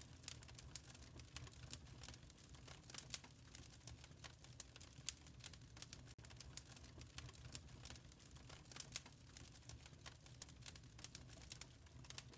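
Wood fire crackling in a fireplace, faint: irregular sharp pops and snaps over a low steady rumble.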